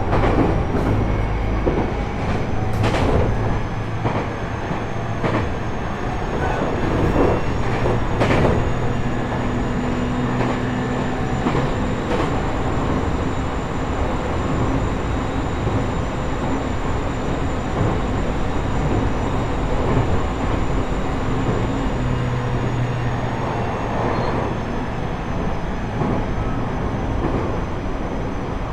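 JR East E127 series EMU running at speed, heard from inside its motor car: steady wheel-on-rail rumble with the whine of the Toyo GTO-VVVF drive, MT71 traction motors and gears. The high tones climb slowly, hold, then ease down a little near the end. Sharp clacks come about 3 and 8 seconds in. This car's gear whine is known for a stray note a semitone above its usual minor-seventh pitch.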